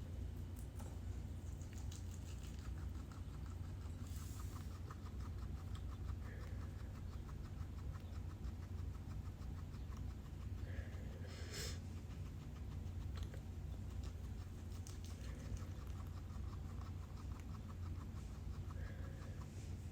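Faint rustling and fast fine scratching from a pet guinea pig moving about, over a low steady hum.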